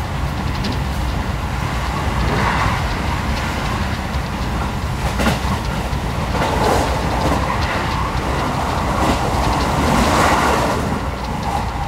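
Electric train running at speed, heard from inside the carriage: a steady low rumble that swells and eases, with a few sharp wheel clicks over the rail joints.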